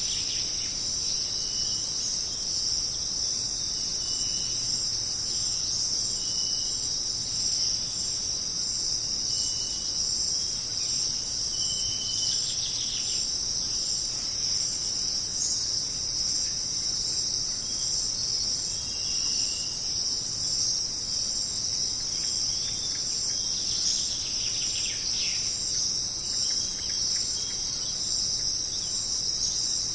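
Jungle ambience: a dense, steady, high-pitched insect chorus, with short high call notes every couple of seconds and brief flurries of chirping about twelve and twenty-four seconds in.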